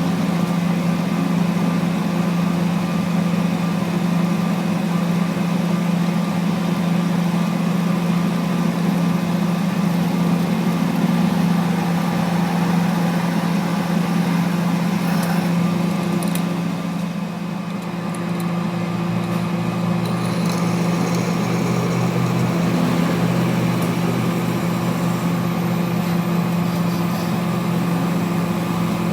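A machine running with a steady hum and a constant pitch, easing slightly for a moment about two-thirds of the way through.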